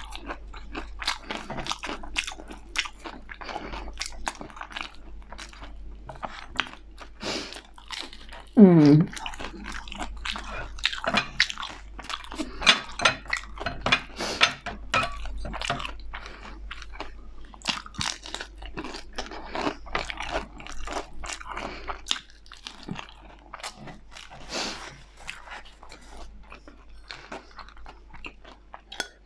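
Close-miked eating: steady crunching, biting and chewing of crisp food, in irregular bites and mouthfuls. About nine seconds in, a short, loud vocal sound from the eater, falling in pitch.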